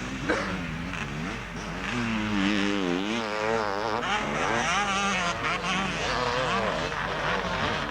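Motocross motorcycles racing, their engines revving up and down over and over as they ride the track, with more than one engine heard at once. A brief knock sounds just after the start.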